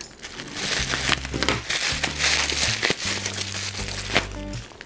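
Plastic bubble wrap crinkling and crackling in irregular bursts as it is pulled off a parcel by hand, with soft background music underneath.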